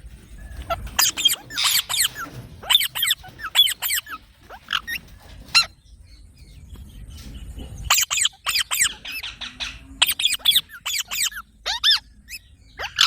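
Several green parakeets calling, a rapid series of short, sharp screeches that slide down in pitch. The calls come in two bursts with a quiet gap of about two seconds between them.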